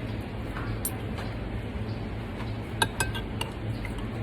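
Tableware clinking at a meal: a few sharp clinks of spoon or plate a little under three seconds in, over a steady low hum.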